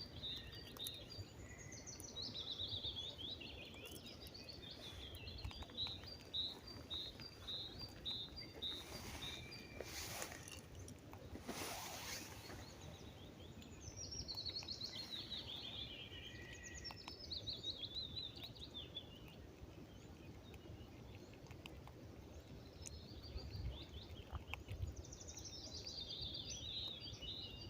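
Small songbirds singing faintly: at first a note repeated about three times a second, then falling trilled phrases that come back a few times. Two short hissing noises come near the middle.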